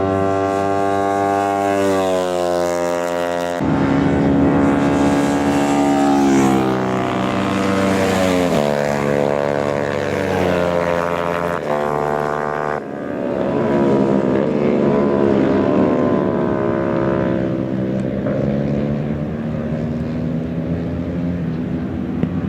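Several racing motorcycle engines at high revs, their pitch climbing and dropping as riders shift gears and the bikes pass, the sound changing abruptly twice.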